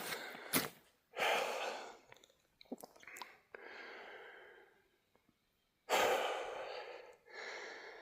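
A climber's heavy breathing: four long, loud breaths about two seconds apart, each trailing off, from hard uphill effort at about 11,000 feet.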